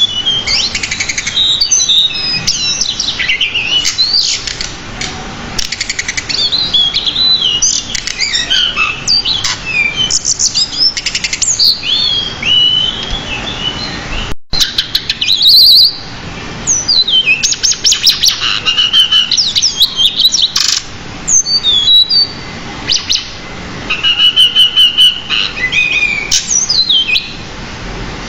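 Pied bushchat (decu) singing a long, varied song of rapid chirps, whistled slurs and buzzy trills, phrase after phrase with hardly a pause, broken by a momentary gap about halfway through.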